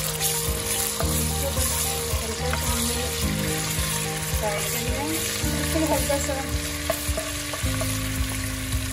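Ginger-garlic paste sizzling in hot oil in a pan, with a steady frying hiss as a spatula stirs and spreads it.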